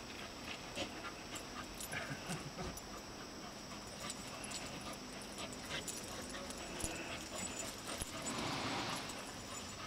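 A terrier mix and a Pembroke Welsh Corgi play-fighting: scattered scuffles and small clicks, with dog whimpers and a louder rough scuffle near the end.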